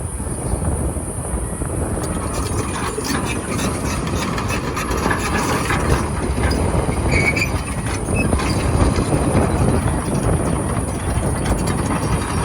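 Komatsu PC240LC-10 hydraulic excavator travelling on its steel tracks: track links clanking and squealing over the diesel engine running under load.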